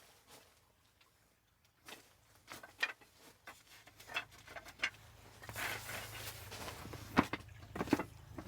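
Scattered light taps and clicks of objects being handled, with two sharper knocks near the end, over a faint low hum that comes in about halfway.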